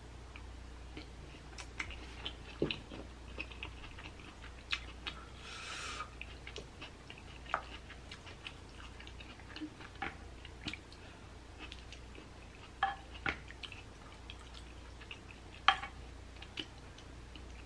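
Close-miked chewing and mouth sounds, with scattered clicks from a wooden spoon scooping food, and a short hiss about five seconds in.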